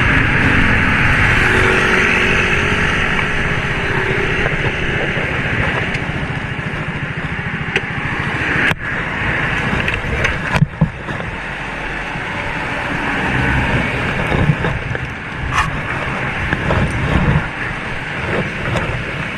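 Motorcycle riding noise: steady wind and road rush with the engine's low rumble underneath, cut by two brief dropouts near the middle.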